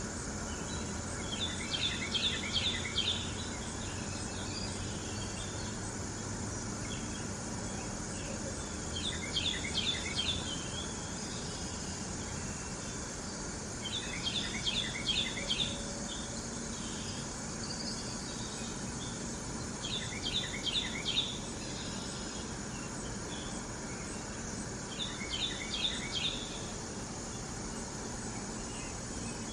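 Carolina wren singing: five short rolling phrases of rapidly repeated notes, one about every six seconds, over a steady drone of summer insects.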